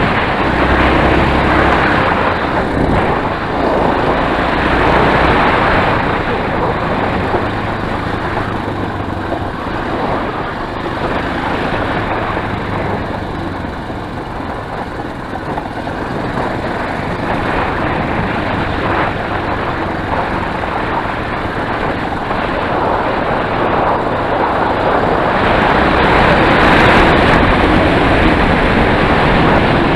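Enduro motorcycle engine running while riding, under a steady rushing noise. Its low note is plainest in the first few seconds and again near the end.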